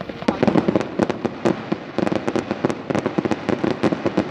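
Aerial fireworks going off in a dense, rapid run of bangs and crackles that thickens about a third of a second in.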